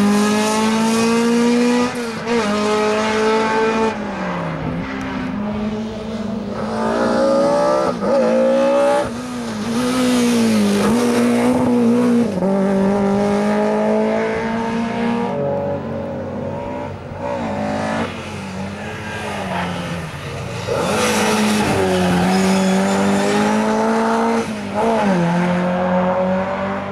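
Rally car engines revving hard. Their pitch repeatedly climbs and then drops sharply as the drivers shift gears and lift off for corners.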